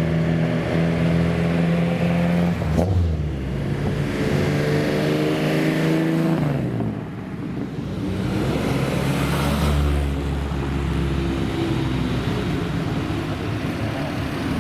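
Car engine being revved: it runs steadily, then rises and falls in pitch a few times as the throttle is opened and let off.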